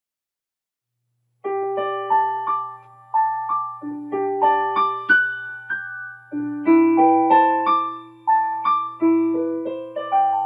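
Solo piano playing the introduction to a choral song: gentle broken chords of struck notes that ring and fade, beginning about a second and a half in after silence.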